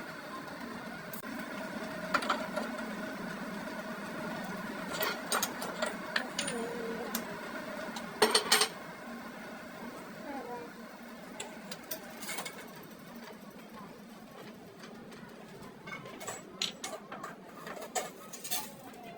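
A workshop machine motor running with a steady hum, with metal clinks and knocks now and then, the loudest about eight seconds in and a quick run of them near the end.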